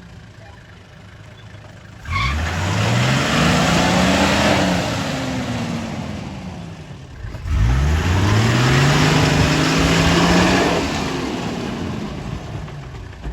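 A Toyota Landcruiser's engine is revved hard twice as it works at an obstacle on a muddy off-road track. Each rev climbs quickly in pitch, holds for a couple of seconds under a loud rushing noise, then falls away.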